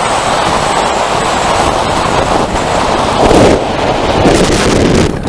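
Loud, steady rushing of strong wind buffeting the microphone, swelling a little about three and a half seconds in.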